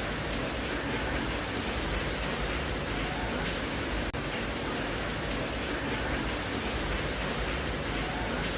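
Steady rain, a continuous even hiss with a very brief dip in loudness about halfway through.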